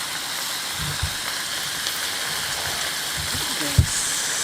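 Garlic and food sizzling in a hot pan, a steady frying hiss, with a couple of low knocks partway through.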